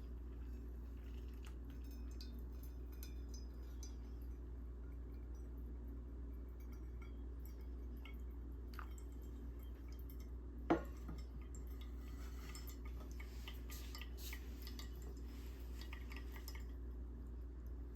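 Faint clinking and ticking of small hard objects, with one sharp knock about eleven seconds in, over a steady low hum.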